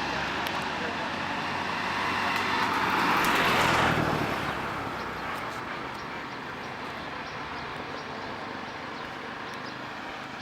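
Motor and road noise of a ride on a Bajaj Pulsar 150cc motorcycle, swelling to its loudest about four seconds in, then settling to a quieter, steady level.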